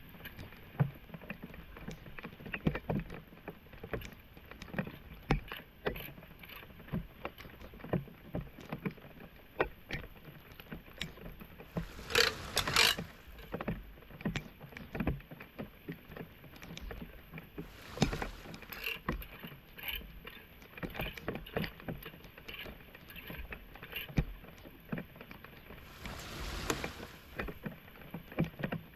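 Splashing and sloshing in floodwater with irregular knocks, from debris being cleared out of a clogged street drain. There are two longer, louder splashes, about twelve seconds in and again near the end.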